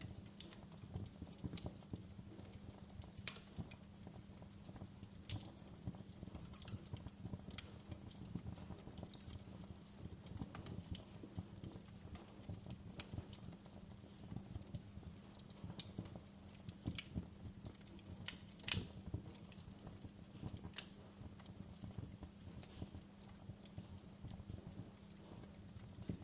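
Wood fire burning in a fireplace, crackling steadily with irregular sharp pops and snaps, one louder pop a little past two-thirds of the way through.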